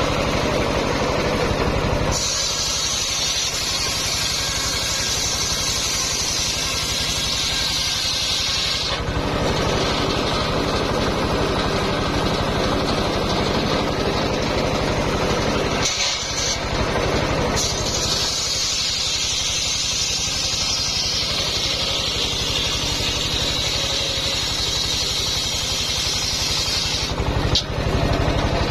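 Homemade engine-driven circular sawmill running steadily, its blade ripping lengthwise through a coconut-palm log in two long cuts. One cut starts about two seconds in and lasts some seven seconds; the other starts about eighteen seconds in and runs until shortly before the end. Between the cuts the saw runs free over the engine's steady drone.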